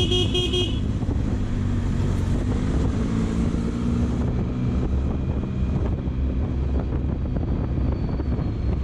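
Benelli Zeus motorcycle running under way, its steady engine drone mixed with wind rushing over the helmet microphone. A vehicle horn beeps in quick short pulses right at the start.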